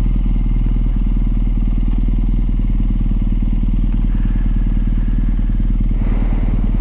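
BMW R nineT's 1170 cc boxer twin idling steadily with an even low pulse. A brief rush of noise comes in near the end.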